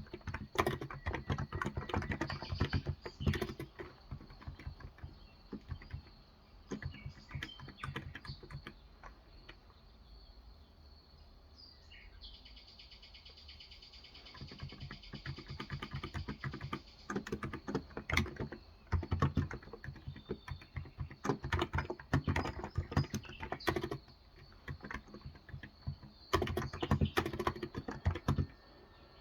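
Typing on a Cox Endeavor tenkeyless keyboard with electrostatic capacitive (Topre-style) 35 g keys: runs of soft keystrokes, with a lull of several seconds around the middle and a shorter pause near the end.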